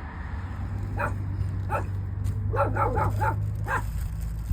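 A dog barking in short yaps: single barks about one and nearly two seconds in, then a quick run of four and one more, over a steady low hum.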